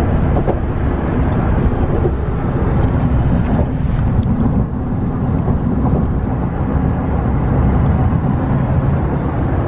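Steady low rumble of road and engine noise heard inside a moving vehicle, with a low hum.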